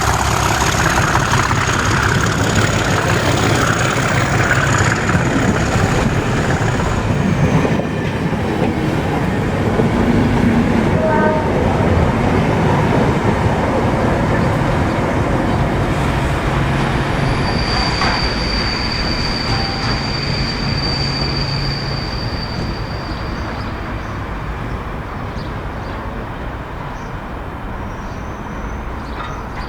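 Diesel train running along the track, with a high wheel squeal for several seconds from about 17 s in; the rumble dies away near the end.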